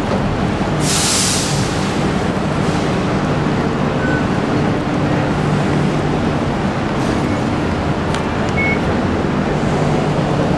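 Steady rumble and hum of a Singapore MRT electric train, with a brief hiss about a second in.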